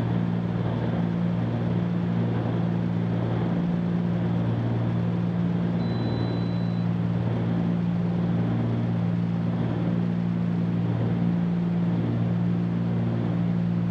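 Twin piston engines and propellers of a Cessna 310Q in a climb, heard as a steady, even drone inside the cabin.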